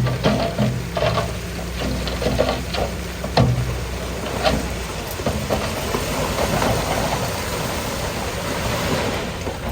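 Heavy diesel earthmoving machinery with rock: an engine running under sharp clanks of stone, then about halfway through a long, even rushing of rock sliding and grinding over rock.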